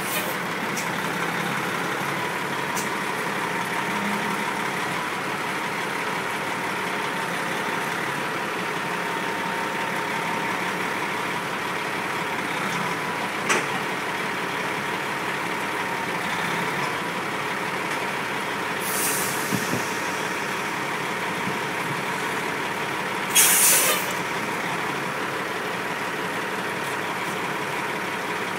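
Heavy truck running steadily with engine and road noise. Air brakes hiss briefly twice, the second time louder and about a second long, and there is one sharp click partway through.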